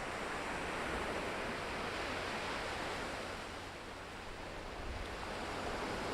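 Ocean surf washing steadily on the shore, a continuous rushing noise that ebbs about two-thirds of the way through and swells again near the end.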